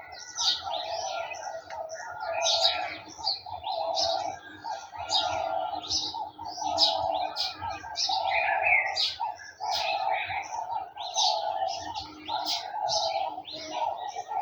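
Garden birds chirping and singing in a busy chorus of quick high notes, with a lower call repeated steadily about once a second underneath.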